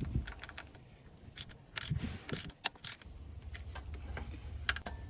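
Irregular small metallic clicks and taps of a ratchet and 10 mm socket tightening an ignition coil nut, over a low steady hum.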